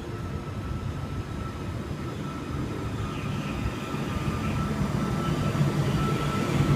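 Electric train running with a steady rumble and a few held tones, growing gradually louder.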